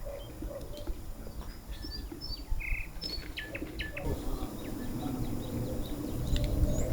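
Songbirds chirping, with short scattered calls and a brief buzzy note, over a low background rumble that grows louder about halfway through.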